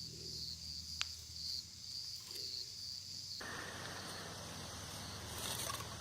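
Insects trilling steadily in the background, with a single sharp click about a second in. About halfway through a steady rushing noise starts and runs on.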